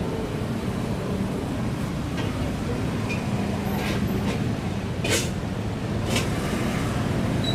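Steady low rumble of vehicle noise, with two short clicks in the second half.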